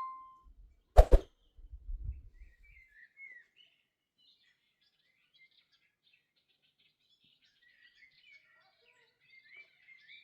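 A single loud, sharp hit about a second in, followed by faint birdsong with short chirps and whistled glides.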